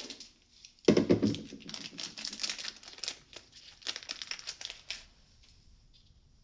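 Crinkling and tearing of plastic packaging being handled and opened for small parts, in a run of crackles that starts about a second in and stops after about four seconds.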